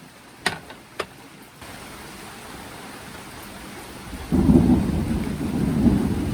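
Thunder rumbling low and loud, starting about four seconds in, over steady rain. Near the start, two sharp knocks about half a second apart.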